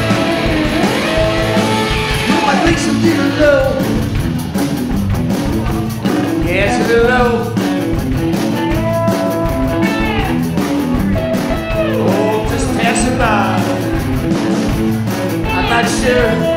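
Rock band playing live: electric guitar over bass and drums.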